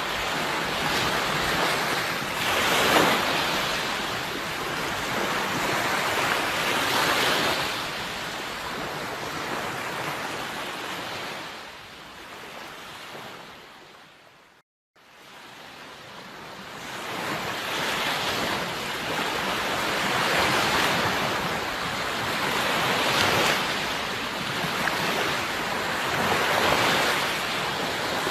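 Sea waves washing onto a shore, swelling and receding every few seconds. About halfway through the sound fades out to a brief silence and fades back in.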